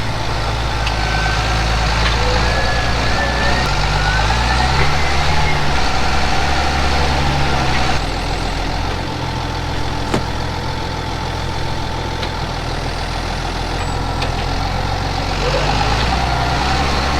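Tractor engine running under load, its pitch shifting up and down a few times as the engine speed changes.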